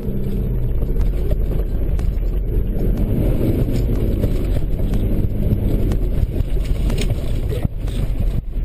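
Four-wheel-drive vehicle's engine pulling hard in low range and first gear, heard from inside the closed cab as it charges through a rough stretch of dirt road, with a steady deep rumble and a few knocks from the vehicle jolting near the end.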